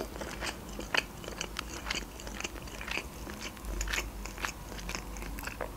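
A person chewing a mouthful of fried meat-filled blin dipped in sour cream, making irregular small mouth clicks and smacks.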